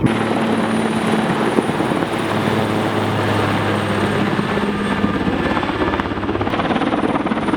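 Firefighting helicopter flying close, its rotor beating in a fast steady chop under a thin, high, steady turbine whine.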